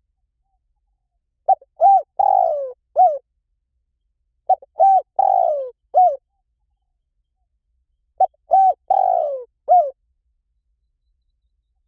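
Spotted dove cooing: three phrases about three seconds apart, each a short run of four notes in which the third is longer and falls in pitch.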